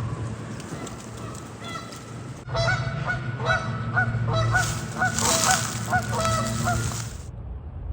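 Waterfowl calling in a quick run of short, pitched calls, two or three a second, starting about two and a half seconds in and stopping abruptly near the end, over a steady low rumble.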